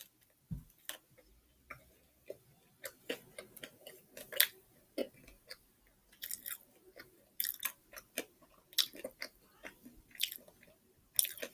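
A person chewing a mouthful of Popeyes spicy fried chicken sandwich close to the microphone, with irregular short crunches and wet mouth clicks.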